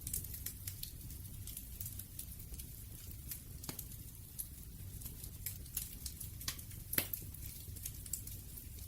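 Wood fire crackling: irregular sharp pops and snaps over a steady low rumble, with a louder pop about seven seconds in.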